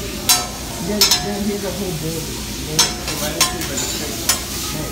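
Food sizzling on a steel hibachi griddle, with metal spatulas clacking sharply against the steel several times as the chef works it.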